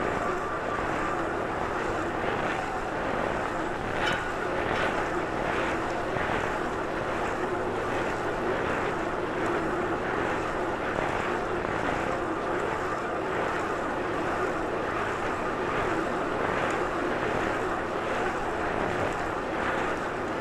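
A bike riding along: steady wind and road rush, with a faint tick repeating about every 0.6 seconds from about two seconds in.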